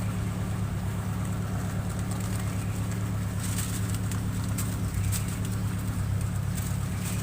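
A steady low droning hum, with faint scattered clicks over it.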